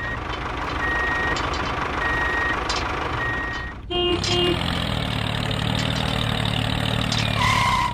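Vehicle reversing alarm beeping over a running engine: four steady beeps of one pitch, a little over a second apart, until the sound cuts off just before halfway. A different engine then runs steadily with a low hum, with a held tone near the end.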